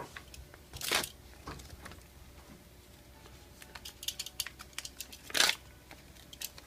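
Paper or packaging being handled at close range: a short rustle about a second in, a quick run of light clicks around four seconds in, and a louder crinkling rustle about five and a half seconds in.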